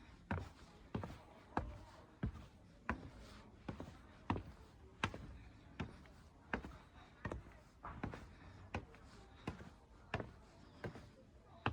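Footsteps walking at a steady pace, one step roughly every two-thirds of a second.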